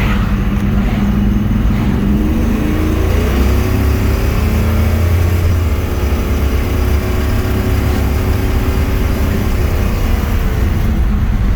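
Built 454 big-block V8 in a 1971 Chevelle Malibu, with aluminum heads and a Turbo 400 automatic, running under throttle with a deep, loud rumble. About two seconds in, its pitch climbs for a few seconds as the car accelerates, then holds steady.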